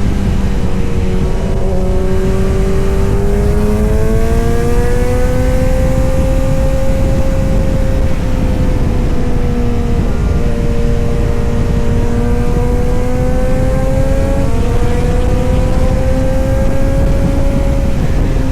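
Kawasaki Z900 inline-four engine and exhaust running under steady throttle, its note slowly rising and falling with small pitch steps about a second in and near the fifteen-second mark, over a steady low rumble.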